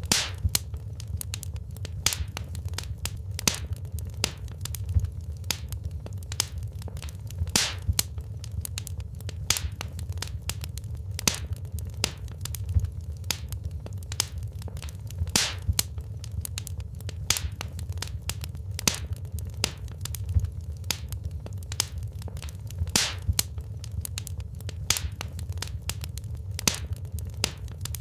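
Wood fire burning in a fireplace, crackling with irregular sharp pops and snaps several times a second over a low steady rumble.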